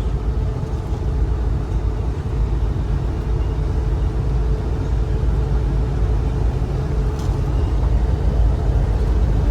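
Road and engine noise inside a moving car's cabin: a steady low rumble with a faint constant hum.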